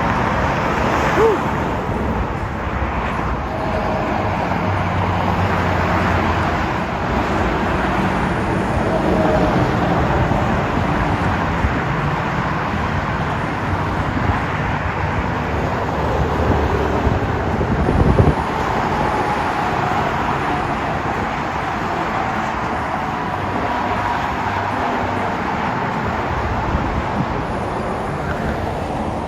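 Road traffic passing steadily, a continuous rush of cars with shifting engine and tyre tones, and a man's shout of "woo" about a second in. A single brief knock about eighteen seconds in is the loudest moment.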